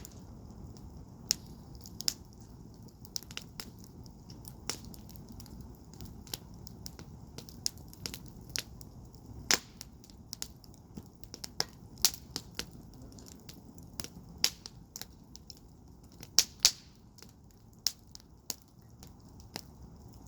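Wood fire in a firepit crackling, with irregular sharp pops several times a second, a few louder ones, over a low steady rumble of the flames.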